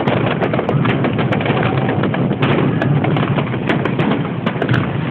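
Fireworks display: a rapid scatter of sharp pops and crackles over a constant dense din.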